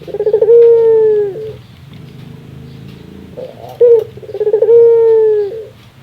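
Ringneck dove (Barbary dove) giving its 'laughing' call, twice. Each time a quick stuttering run of notes flows into one long held coo, and a short sharp note comes just before the second.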